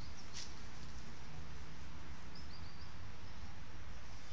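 A few faint, quick high chirps from a small bird about two and a half seconds in, over a steady low outdoor rumble, with a brief click shortly after the start.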